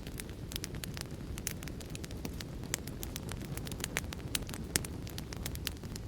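Wood fire crackling: a steady low rumble of burning with frequent sharp, irregular pops and snaps.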